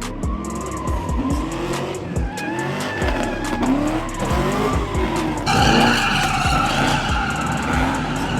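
Car engines revving up and down over and over, with tire squeal joining about five and a half seconds in. Music with a heavy bass beat plays underneath.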